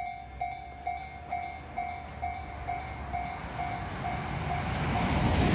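A Tobu 50090-series electric commuter train approaching, its rumble of wheels on rails growing steadily louder from about three seconds in. Over it, a two-tone electronic warning bell dings about twice a second and fades, typical of a Japanese level-crossing alarm.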